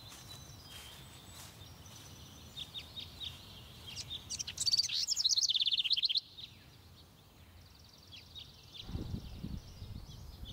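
Songbirds chirping, with a loud rapid trill about halfway through that cuts off suddenly. Near the end, footsteps thud on metal stair treads.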